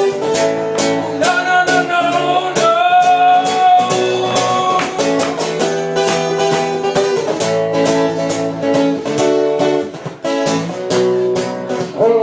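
Acoustic guitar strummed in a steady rhythm as an instrumental break in a live song, with one long held high note over it from about one to five seconds in.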